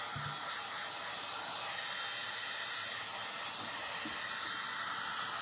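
Craft heat tool running, a steady rushing hiss of blown hot air.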